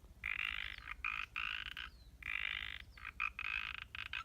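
Frogs calling at a pond: a run of short croaks repeating about one and a half times a second.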